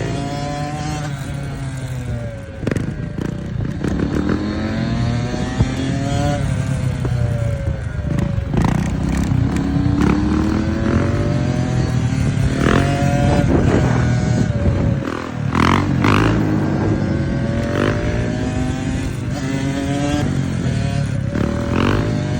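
Dirt bike engine revving up and easing off over and over as it is ridden, its pitch climbing and falling many times, with a few sharp clacks in between.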